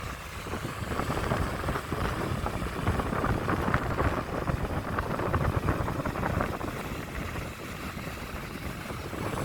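Wind buffeting the microphone in a steady low rumble, with scattered faint clicks and ticks throughout.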